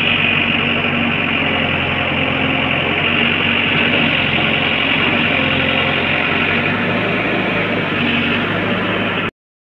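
Heavy diesel engine of earthmoving machinery running steadily. It cuts off abruptly near the end.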